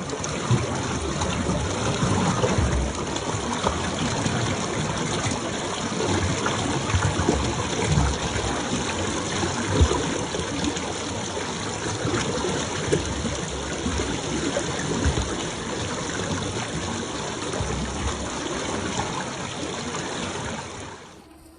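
Steady rushing, splashing water as a radio-controlled scale truck drives through it, with irregular low thumps throughout. The noise drops away suddenly near the end.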